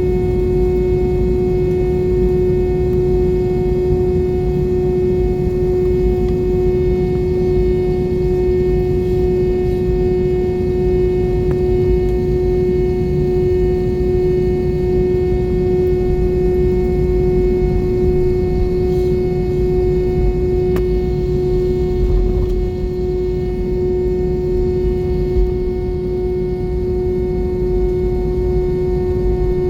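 Airbus A320 airliner's engines running steadily, heard from inside the passenger cabin: a constant low rumble with a steady droning hum.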